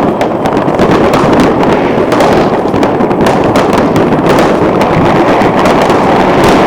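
Many fireworks going off at once: a loud, dense, unbroken crackle of bangs and pops.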